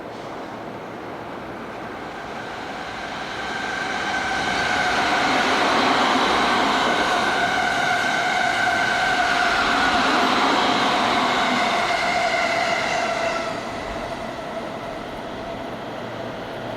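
An electric commuter train passes through a station. Its running noise swells over a few seconds, stays loud for about eight seconds with a steady high whine, then dies away near the end.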